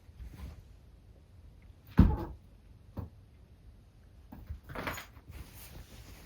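Two cats romping indoors: a loud thump about two seconds in, a lighter knock a second later, and a short rustling scuffle near five seconds in.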